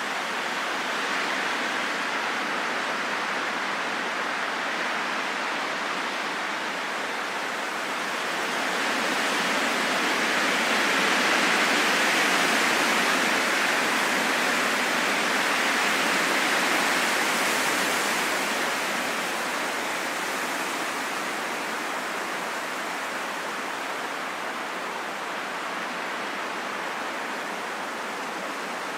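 Steady, heavy rain falling in a forest, a dense even hiss that swells louder for about ten seconds in the middle.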